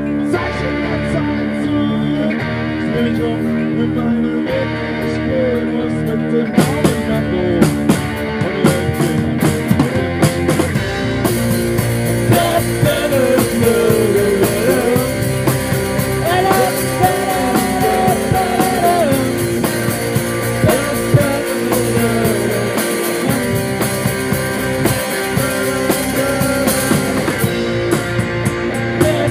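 Live rock band playing an instrumental passage, guitar-led, with a wavering lead melody. Drum hits come in after a few seconds, and a steady cymbal wash joins a little over a third of the way through.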